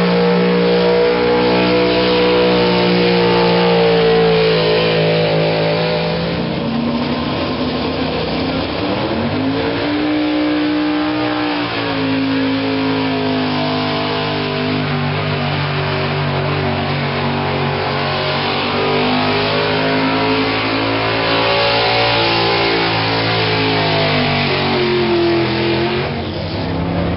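Pulling truck's engine held at high revs under heavy load for a long run down the track. The pitch sags twice, about a third of the way in and again near the end, and climbs back each time, as the engine bogs and recovers against the sled.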